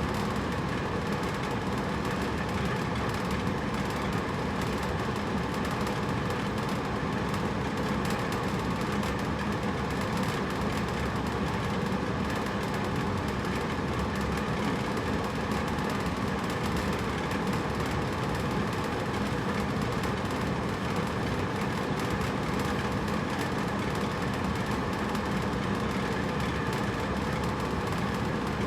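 Hotel room air conditioner running: a steady, unbroken rush of air with a low hum under it.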